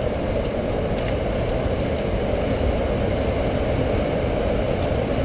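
Strong tornado wind blowing across the microphone: a steady, low, rushing rumble with buffeting flutter.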